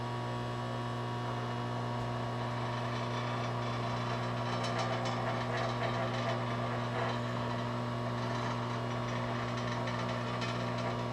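Lionel operating baggage station accessory running with a steady electrical hum, fairly quiet for its kind, and a light clatter of moving parts joining in about four seconds in.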